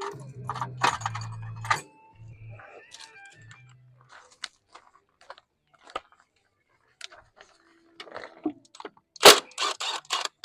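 Metal tools and parts being handled: a quick run of clinks and rattles, then scattered single clicks and knocks, and a louder clatter with rattling about nine seconds in.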